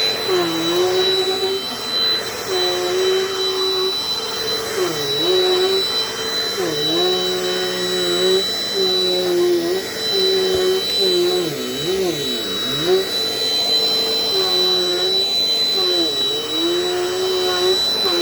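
Dirt Devil Dynamite Plus upright vacuum cleaner running, with a steady high whine. Its motor pitch dips and recovers every second or two.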